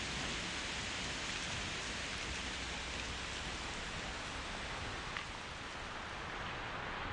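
Steady rain falling, an even hiss with a few single drops ticking out of it.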